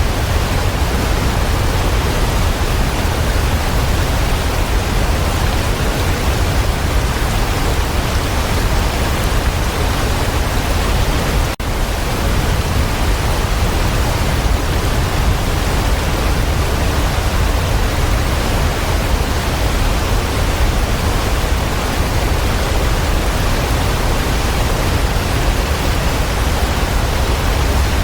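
Waterfall: a steady, even rush of falling water with one momentary dropout a little before the middle.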